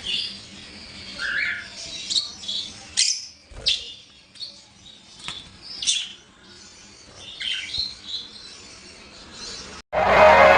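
Pet birds in an aviary giving short, high-pitched chirps and squawks, several overlapping. Near the end the sound cuts abruptly into loud music with singing.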